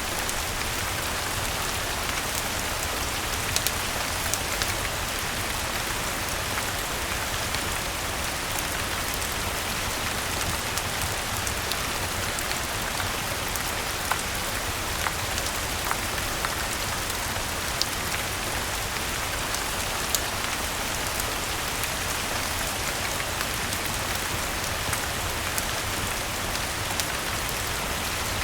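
Steady rain falling evenly, with scattered sharp ticks and pops throughout.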